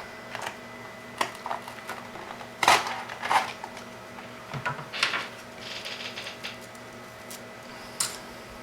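Irregular plastic clicks and clatter of hands working the robot's wiring, with a cable tie ratcheting tight for about a second midway.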